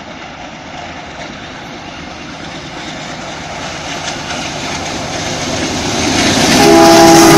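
Diesel-hauled express passenger train approaching at full speed, its rumble growing steadily louder. Near the end the locomotive's horn starts a long blast of several notes at once.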